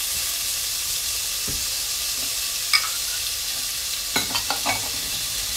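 Parboiled potato wedges and whole spices frying in hot ghee in a pan, a steady sizzle. A sharp crack comes about halfway through, and a quick run of crackles near the end.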